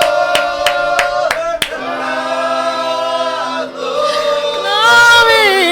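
Worship singing by a congregation, with long held notes. In the first couple of seconds a quick run of sharp strikes comes about three a second, then stops.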